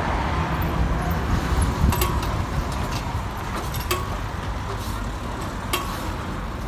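Passenger train moving off along the track: a steady low rumble with occasional sharp clicks of wheels passing over rail joints, a few of them leaving a brief ringing tone, and the sound easing slightly as the train draws away.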